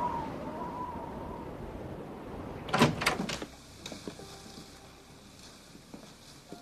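A held musical note fades out. About three seconds in, a door bangs with a quick cluster of sharp knocks, followed by a few faint clicks and taps.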